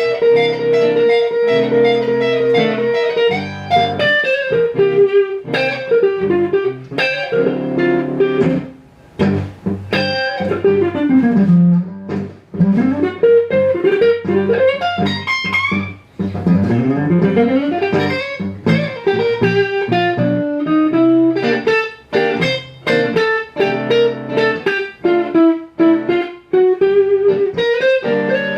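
Electric guitar playing a blues solo: fast runs sweeping up and down between held notes, over steady lower notes.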